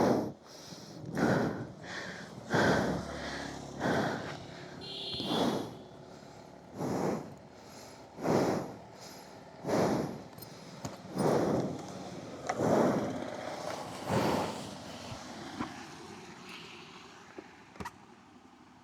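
A man panting heavily from exertion after climbing uphill with a loaded rucksack, with a loud breath about every second and a half that weakens toward the end.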